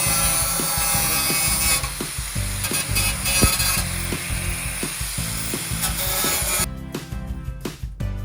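Continuous rasping workshop tool noise, like abrasive work on metal, over background music with a steady beat; the tool noise cuts off sharply near the end, leaving the music.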